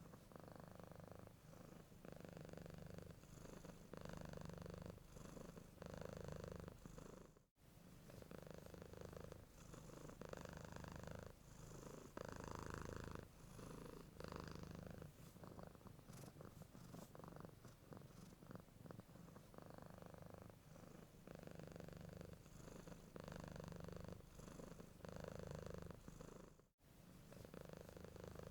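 Domestic cat purring softly, in a steady rhythm of swells about a second or two long with each breath in and out. The sound drops out for an instant twice.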